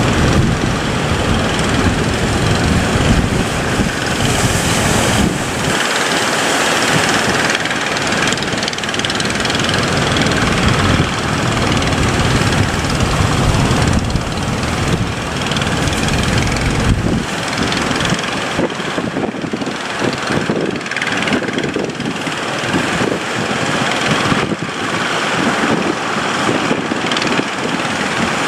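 Boat engine running amid a loud rush of wind and sea noise; the engine's deep rumble drops away for stretches, about six seconds in and again from about two-thirds of the way through.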